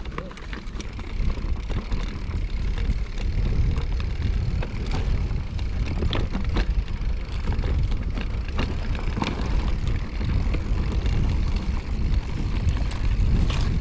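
Mountain bike riding over a rough trail: wind buffets the microphone with a steady low rumble, and sharp knocks and rattles come from the bike over rocks and roots, several in the middle and one near the end.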